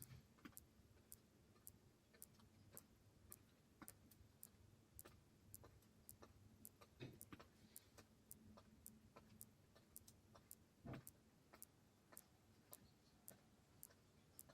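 Faint, steady ticking, about two ticks a second, over a low hum, with two slightly louder soft knocks partway through.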